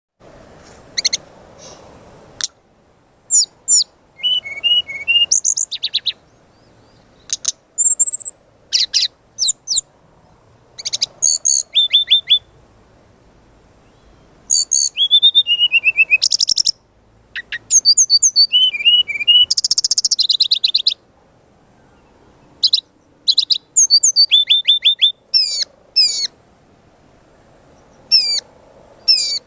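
Brown-chested jungle flycatcher singing: short, fast, high-pitched phrases of rapid notes, trills and quick slurred whistles, with brief pauses between phrases.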